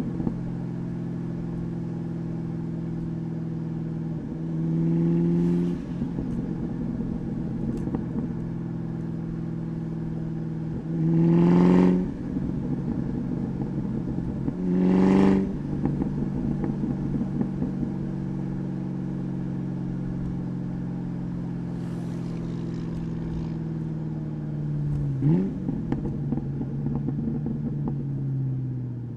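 2003 Ford SVT Mustang Cobra's supercharged 4.6-litre V8 through a Bassani catback exhaust, cruising steadily. Three times the throttle is pressed and the exhaust rises in pitch and gets louder for about a second before dropping back. Near the end there is a short blip, and then the engine note falls slowly as the car slows.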